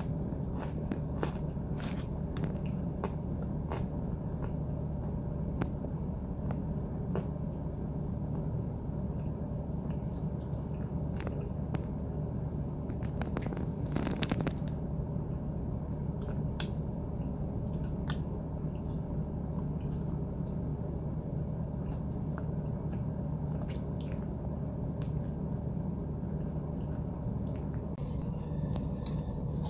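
Close-up chewing of powdery white chunks: sharp crunching clicks come at an irregular pace, thickest about halfway through, over a steady low hum.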